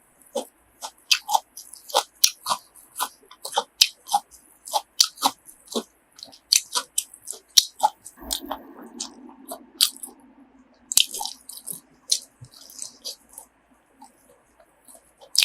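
A person chewing and biting grilled pork offal, with close, moist mouth clicks two or three a second and a brief low murmur about halfway through.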